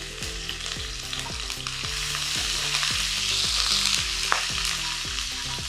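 Grated ginger sizzling in hot fat in a stainless steel wok while a wooden spoon stirs it around. The sizzle is a steady hiss that swells louder through the middle.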